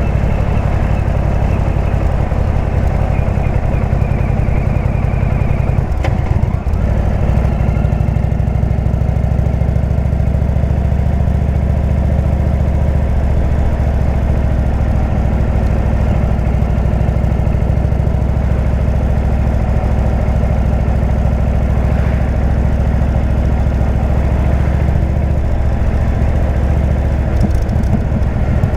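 Indian V-twin motorcycle engine running through a Jekill & Hyde exhaust, a steady deep drone while riding, with a brief dip about six and a half seconds in.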